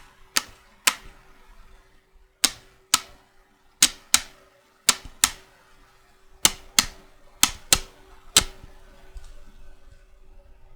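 Magnetic checkers pieces clicking sharply, about a dozen clicks, mostly in quick pairs, that stop about two seconds before the end.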